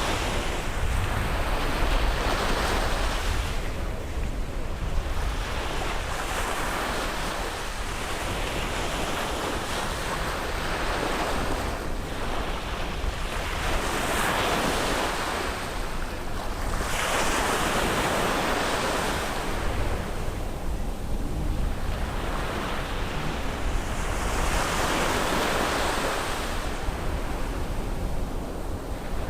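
Sea waves breaking and washing up on a beach, one swell after another every few seconds, each rising to a rush of surf and then easing off.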